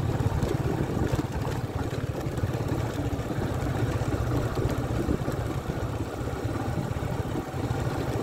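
Motorcycle engine running steadily at low speed, heard from the rider's own bike.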